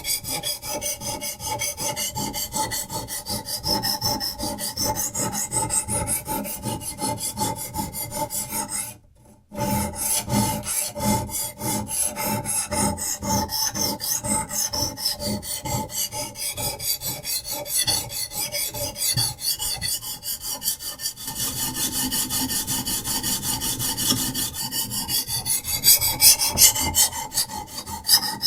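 Diamond sharpening stone on a Hapstone RS guided knife sharpener rasping back and forth along a knife's edge in quick, even strokes, with a short pause about a third of the way in.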